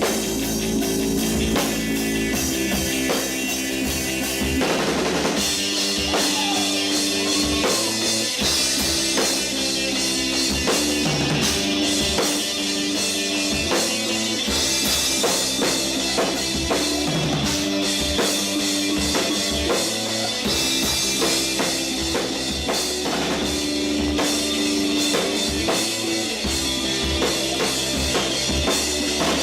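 Live rock band playing an instrumental passage: a drum kit keeps a steady beat under sustained guitar chords, with no singing.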